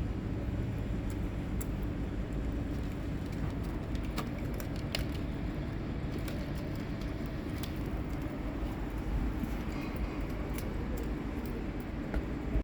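Steady low outdoor rumble, like distant traffic or wind on the microphone, with scattered light clicks and ticks throughout.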